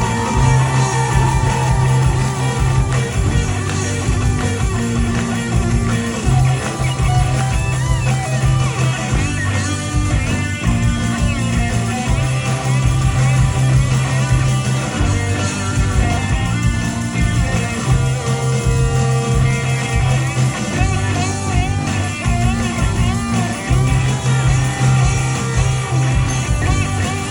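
Rock music played by a band: an electric guitar lead with bent, wavering notes over a repeating bass line.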